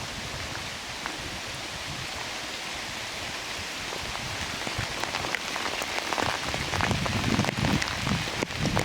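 Steady rain falling through redwood forest, with many separate drops pattering close by. The drops grow denser and louder about halfway through.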